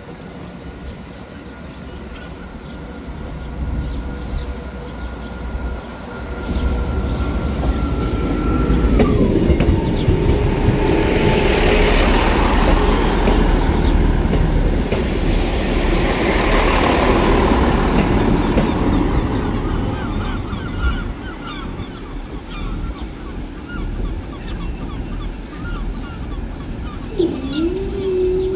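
Transport for Wales Class 158 diesel multiple unit running slowly over a level crossing. The engine and the wheels on the rails grow louder to their loudest about halfway through, then fade. Near the end a steady whine starts as the crossing barriers lift.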